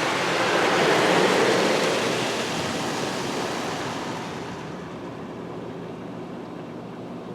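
Spot-free rinse water from a Mark VII Choice automatic car wash spraying on the car, heard from inside the cabin as an even hiss. It dies away over the first four or five seconds, leaving a low steady hum.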